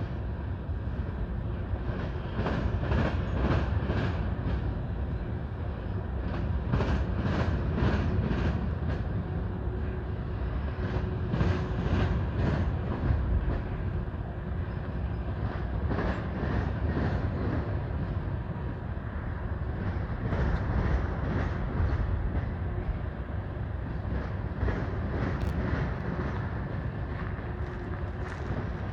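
Freight train cars rolling past at steady speed: a continuous low rumble of steel wheels on rail, with irregular clicks as the wheels cross rail joints.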